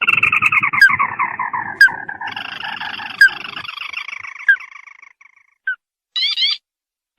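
Recorded crake call (sintar) played as a trapping lure to call in rival birds: a rapid run of notes falling in pitch, thinning and fading out about five seconds in, with a few sharp single notes, then a short burst of rising notes near the end.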